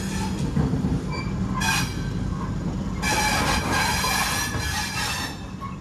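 Passenger train pulling slowly out of a station, heard from an open coach door: a steady low rumble of wheels on rail, with high metallic wheel squeal that comes in briefly and then returns more strongly for a couple of seconds in the second half.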